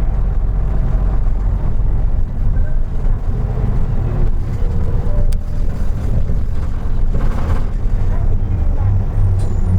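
Isuzu Erga Mio city bus's diesel engine running, a steady low drone heard from inside the passenger cabin. A single sharp click comes about five seconds in.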